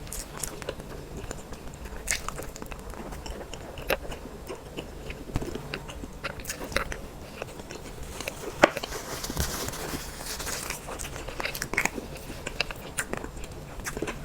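Close-miked eating of dessert: a person biting and chewing, with sharp, wet mouth clicks and smacks scattered throughout and a few seconds of brighter, hissy crackling around the middle.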